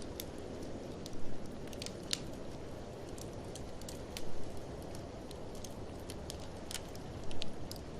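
Wood fire crackling, with scattered sharp pops, over a steady low rush of blizzard wind. The sound swells briefly three times: about a second in, midway, and near the end.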